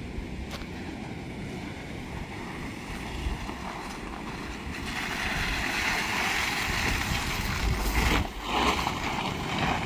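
Tank 500 SUV driving slowly over wet, rough off-road ground: a steady low rumble of the vehicle and tyres, with a louder rushing noise building from about five seconds in.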